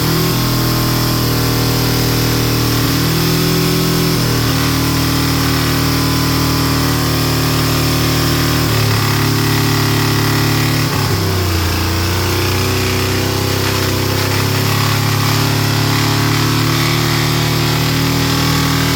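Fox Body Mustang engine running with dish soap in place of its engine oil and coolant, its speed stepping up and down several times.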